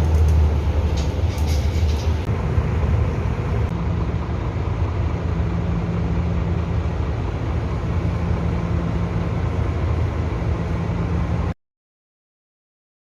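A steady low vehicle rumble, like riding inside a moving car or bus. It cuts off abruptly into dead silence near the end.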